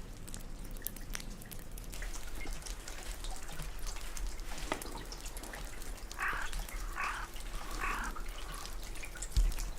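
Water dripping and trickling in many small drips, with three short cries about a second apart some six to eight seconds in and a dull thump near the end.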